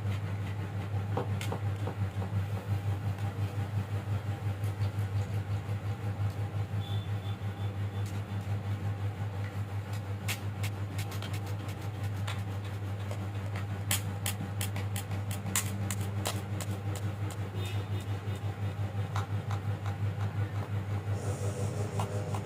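A steady low mechanical hum with a fast, even pulse, and a cluster of sharp clicks about ten to sixteen seconds in.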